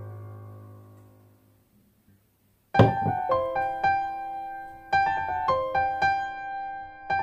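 Background piano music: one piece fades out to a short silence, and a new piano piece of single struck notes begins almost three seconds in.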